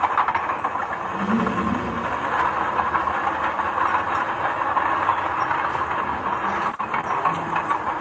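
Earthmoving machinery running: a steady, dense mechanical clatter and hiss, with a brief low hum about a second in and a short break near the end.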